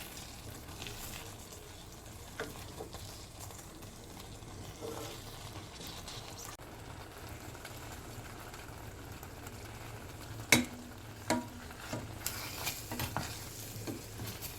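Faint crackling hiss with scattered small clicks, and a few sharper knocks in the last few seconds.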